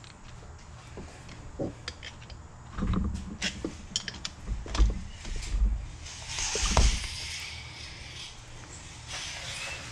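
Scattered metal clicks and taps of hand tools on the cam sprocket of a Yamaha Warrior 350 engine as the bolt lock tabs are bent back, with a few dull knocks and a brief rustle about two-thirds through.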